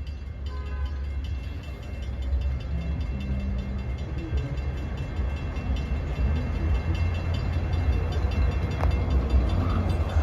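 LIRR M9 electric multiple-unit train approaching, a low rumble that grows gradually louder.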